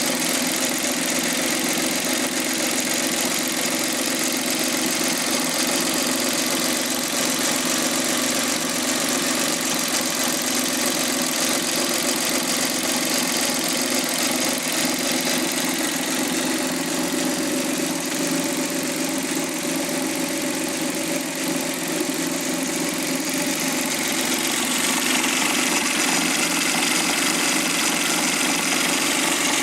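Suzuki K6A 660 cc three-cylinder engine from a JB23W Jimny idling steadily, getting slightly louder near the end.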